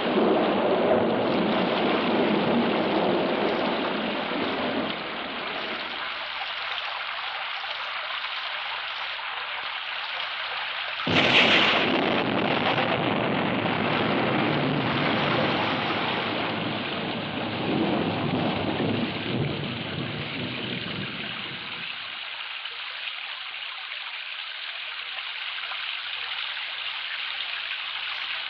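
Thunderstorm sound effect from a vinyl sound-effects record: steady rain hiss with rolling thunder, broken by a sudden sharp thunderclap about eleven seconds in, then another long rumble a little before twenty seconds.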